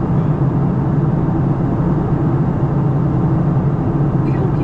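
Steady cabin noise of a Boeing 737-900 in flight, heard from inside the cabin: an even, low drone from its CFM56 engines and the airflow over the fuselage.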